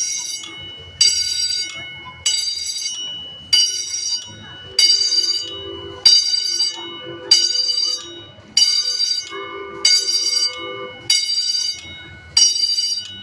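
Railroad crossing bell ringing at the crossing's warning signal, struck steadily about once every 1.25 seconds, each strike ringing out and fading before the next.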